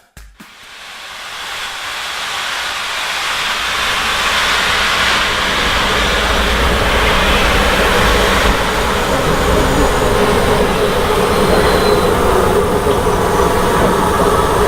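A train running on the line, its rumble and rush growing louder over the first few seconds and then holding steady.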